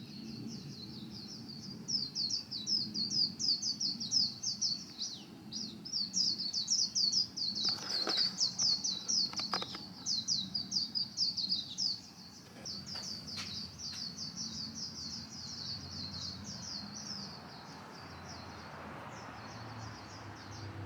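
A flock of small birds chirping and chattering nonstop, many quick high chirps overlapping, louder for the first half and then softer. A few faint clicks sound in the middle.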